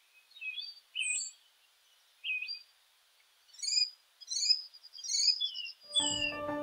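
Birds chirping and singing in short, high whistled phrases with quiet gaps between them. A low sustained music score comes in near the end.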